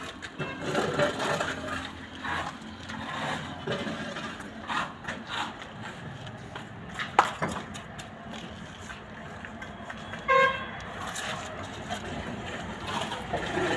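Mixed background noise with scattered knocks and one sharp click. A vehicle horn beeps once, briefly, about ten seconds in.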